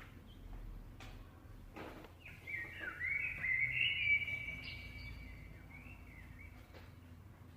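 Bird-call sound effect: overlapping high chirps and short gliding calls starting about two seconds in, loudest around four seconds, then fading out. A couple of soft knocks come before it.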